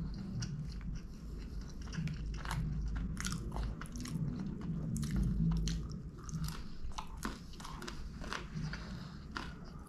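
Close-up chewing of a crispy Pizza Hut Melt crust, with sharp crunches at irregular intervals over wet mouth sounds.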